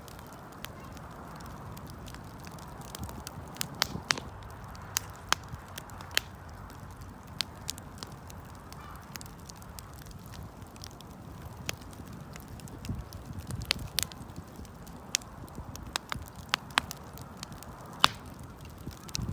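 Wood campfire burning: sharp, irregular crackles and pops over a steady low rush of the flames, with one louder pop near the end.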